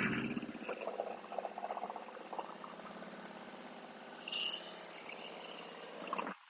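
Motorcycle engine running at low speed with a fast, even pulsing, which cuts off suddenly near the end.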